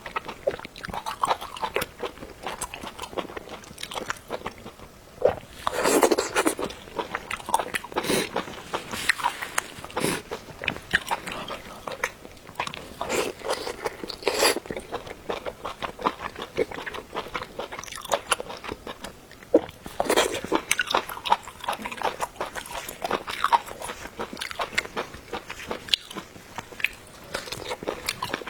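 People biting and chewing food, with irregular wet crunches and clicks.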